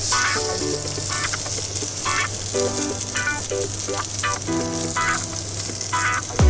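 Soaked sabudana (tapioca pearls) sizzling as it fries in ghee in a pan, a steady hiss, under background music with a short repeating melody.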